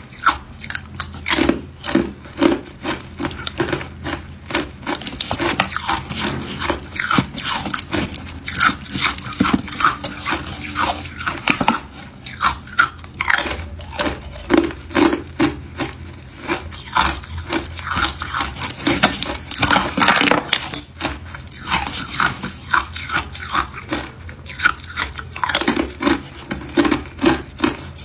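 Hard ice cubes being bitten and chewed close to the microphone: rapid, irregular crunching and cracking that keeps going without a break.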